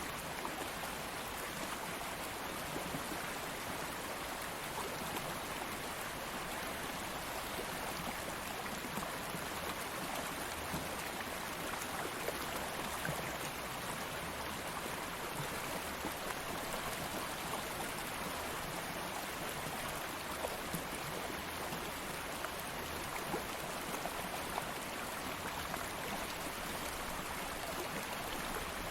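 Stream of flowing water, a steady wash with small splashes and trickles scattered through it.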